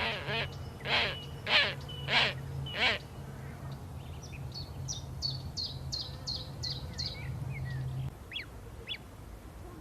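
Birds calling: about five loud, harsh calls roughly half a second apart, followed by a quicker run of short high chirps, over a steady low hum that stops near the end.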